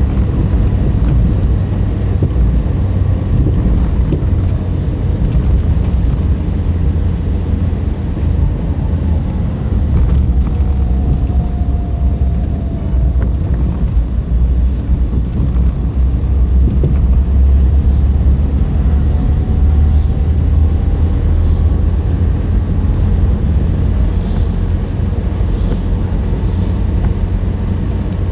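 Car driving: a steady low rumble of road and tyre noise, with faint short gliding tones now and then.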